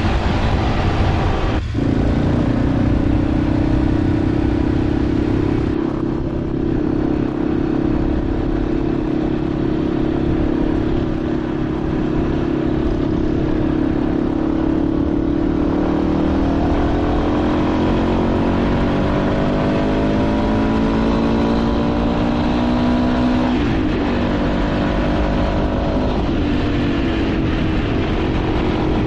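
Motorcycle engine running while under way. Its pitch climbs slowly and then drops suddenly once, late on, as in a gear change.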